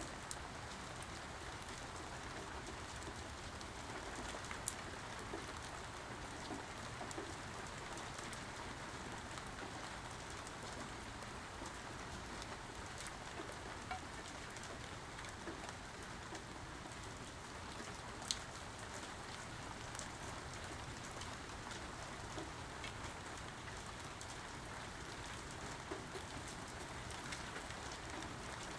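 Steady rainfall with individual drops ticking sharply now and then, two louder ones about five seconds in and near the middle.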